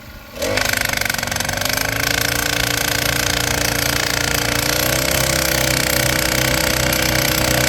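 Petrol-powered post driver starting about half a second in and then running steadily at high revs as it drives a fence post, its small engine's pitch rising and dipping slightly midway.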